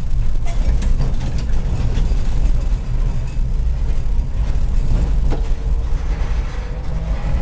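Vintage twin tram running, heard from on board: a steady low rumble with a few scattered sharp clicks and rattles.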